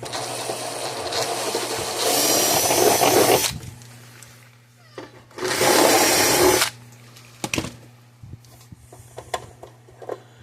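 Power drill with a step bit enlarging a hole, running in two bursts: one of about three and a half seconds that gets louder partway through, then a shorter burst of about a second and a half. A few light clicks follow.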